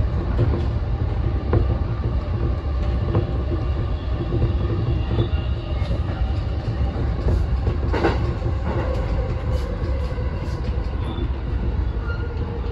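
JR East E233-1000 series electric commuter train running, heard from the driver's cab: a steady low rumble of wheels on rail with irregular clicks over rail joints and points. A motor whine sinks slowly in pitch in the second half as the train brakes into a station.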